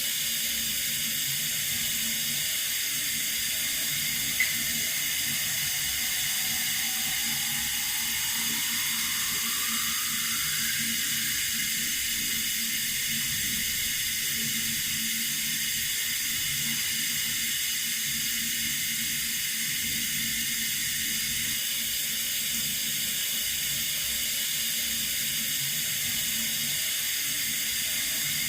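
Water running steadily from a tap, an even hiss, with a brief click about four seconds in.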